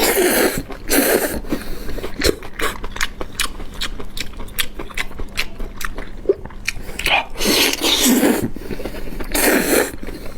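Close-miked eating sounds: chewing with many quick wet mouth clicks, and a few louder bursts about a second long near the start and again around seven to ten seconds in.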